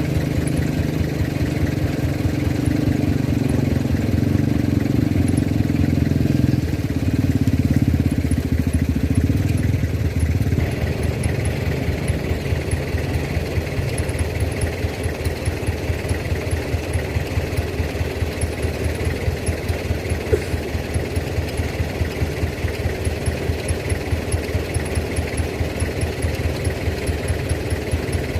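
Diesel truck engine running hard, then changing at about ten seconds in to a steady, even chugging.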